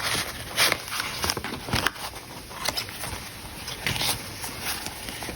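Paper and card being handled as junk journal pages are turned: irregular rustles, crinkles and light taps, several a second.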